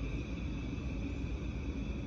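Electric multiple-unit passenger train moving through the station below, a steady low rumble with a steady high whine above it.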